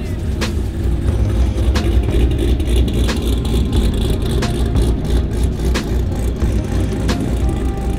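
Chevrolet Corvette C6 Z06's 7.0-litre V8 rumbling at low speed as the car rolls past, under background music with a slow, even beat about every second and a third.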